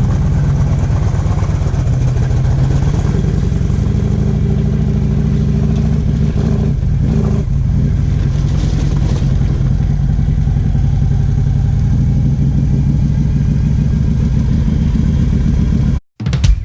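Harley-Davidson V-twin motorcycle engine running steadily, heard close up. It cuts off abruptly near the end.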